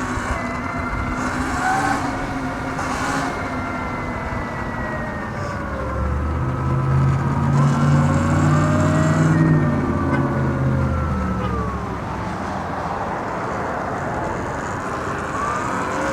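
Sur-Ron Light Bee electric dirt bike's motor whine, rising and falling in pitch as the speed changes, over a steady rushing noise. A low hum swells up in the middle for about five seconds, then fades.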